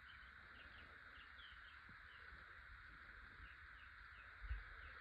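Faint outdoor chorus of insects and birds: a steady insect drone with short falling chirps repeating a few times a second. One brief low bump comes about four and a half seconds in.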